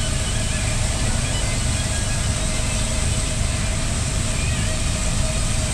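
Steady machine drone with a constant hum over a low rumble and hiss, unchanging throughout.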